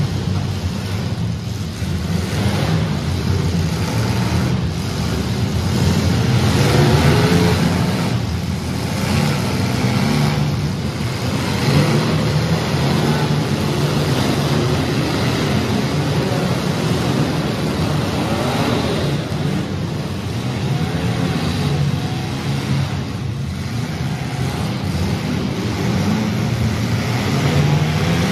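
Engines of several compact demolition-derby cars running hard and revving, their pitch rising and falling over and over.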